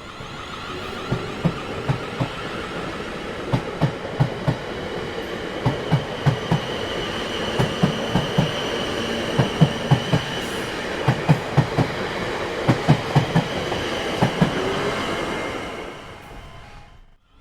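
Train wheels running over rail joints, a steady clickety-clack of knocks in pairs and groups under a continuous rolling noise, fading out about a second before the end.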